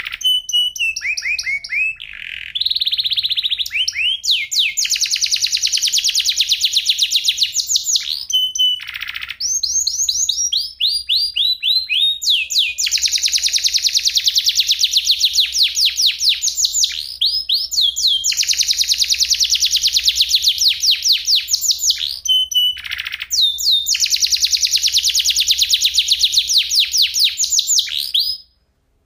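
Domestic canary singing: long, fast trills of rapidly repeated high notes, with runs of quickly falling sweeps and short pauses between phrases. The song stops suddenly near the end.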